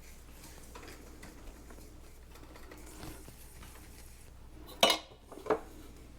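Hard objects being handled during work on a kitchen sink drain: faint scraping and handling, then two sharp clanks about two thirds of a second apart, the first the louder.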